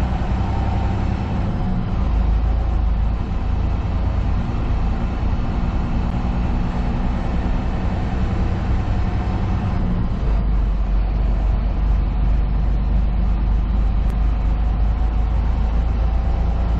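Semi truck's diesel engine and road noise droning steadily inside the cab while driving at speed. The low rumble grows stronger about two seconds in and again about ten seconds in.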